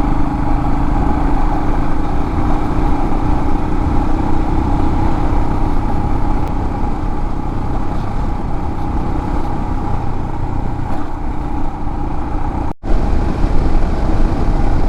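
Royal Enfield Himalayan's single-cylinder engine running steadily at road speed, under heavy wind rumble on the microphone. The sound drops out for an instant near the end.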